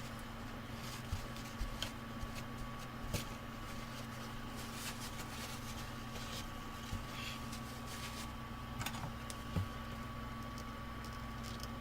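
Steady electrical hum with a faint high whine, and scattered light clicks and taps.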